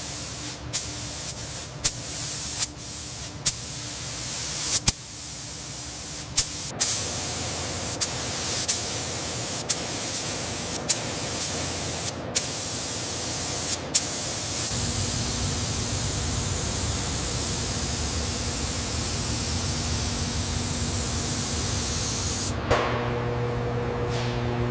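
Hissing spray: first a series of short spurts with sharp clicks, then a continuous hiss for about eight seconds. The hiss stops near the end, leaving a low steady hum.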